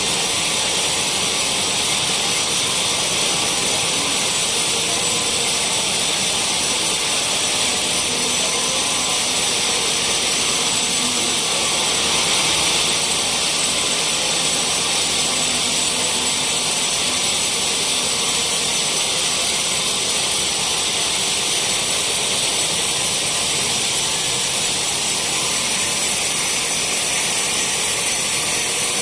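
Sawmill saw running steadily through teak logs: a continuous high-pitched hiss and whine with no break.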